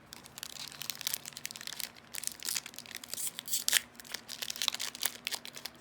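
Crinkling and rustling from handling Yu-Gi-Oh! booster packs: the foil wrapper crackles and the trading cards shuffle in a quick, irregular run of small crackles.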